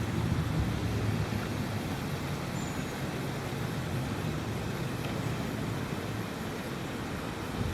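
Steady low rumble of outdoor background noise, with a faint, brief high chirp about two and a half seconds in.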